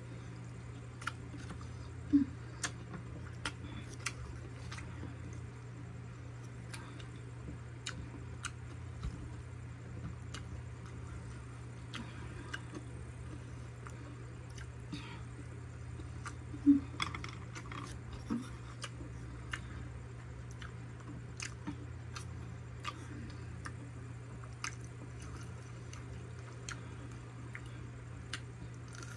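Close-up chewing and wet mouth clicks of someone eating steamed siomai dumplings, with scattered small clicks and two sharper knocks. A steady low hum runs underneath.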